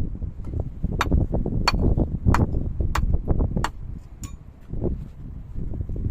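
A hand tool striking hard, six sharp blows evenly spaced about two-thirds of a second apart, stopping after the sixth.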